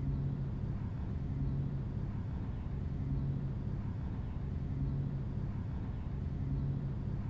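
A steady low engine drone, its hum swelling and fading about every second and a half.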